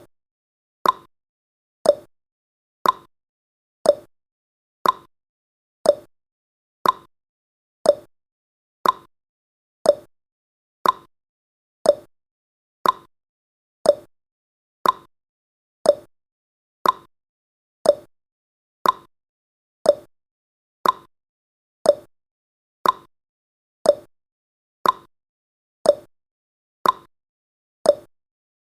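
Clock tick-tock sound effect of a countdown timer: one sharp click every second, alternating between a higher tick and a lower tock.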